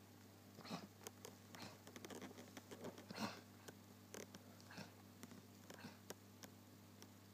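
Faint, irregular sounds from a sleeping basset hound: a string of short soft taps and scuffs with a few breathy snuffles, loudest about three seconds in.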